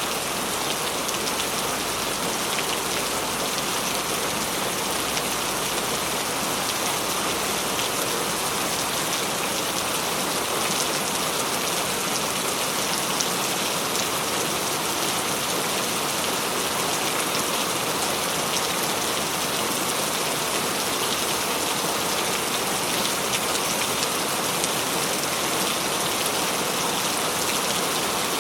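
Steady heavy rain falling on a surface, an even hiss with faint fine drop ticks.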